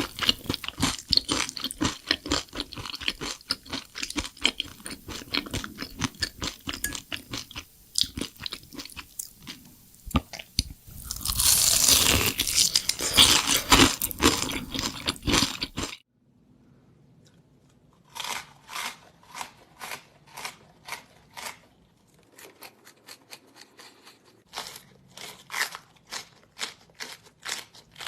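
Close-miked crunching and chewing of a crunchy snack, dense and fast at first, with a louder noisy stretch in the middle. After a sudden cut it settles into steady, evenly spaced chewing crunches, about one and a half a second.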